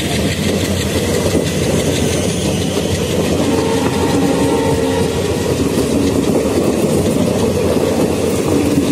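Indian Railways passenger coaches rolling past close by: a steady, loud rumble of wheels on the rails.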